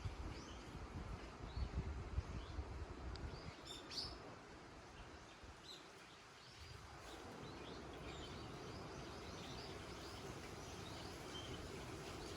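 Wind gusting on the microphone, dying down about halfway through and leaving a soft steady hiss, with small birds chirping lightly throughout.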